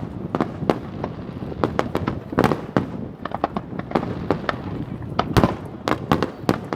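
Fireworks going off: a rapid, irregular series of sharp bangs and crackles from aerial shells bursting, with a louder deep bang about five seconds in.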